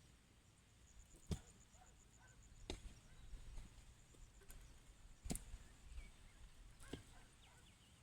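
Faint, sharp chopping strikes of a hand tool, about five blows spaced one to two and a half seconds apart.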